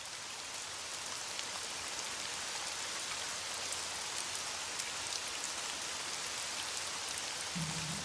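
Rain: an even, steady hiss with scattered light drop ticks.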